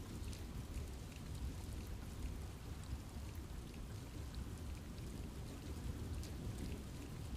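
Steady rain in a forest, with a low rumbling wash underneath and many scattered drops ticking sharply on leaves and other surfaces.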